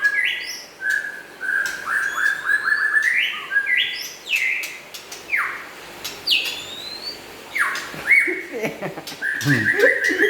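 White-rumped shama (murai batu) singing: loud whistled phrases, rapid trills, quick upward sweeps and sharp clicks in a continuous varied song. A lower, wavering sound joins near the end.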